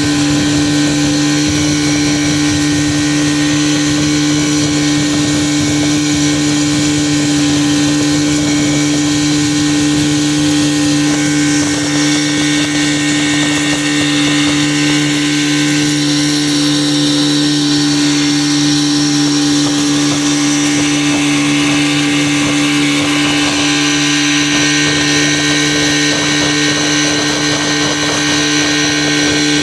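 Motorboat engine running at a steady cruising speed with a constant hum, under a hiss of water and wind.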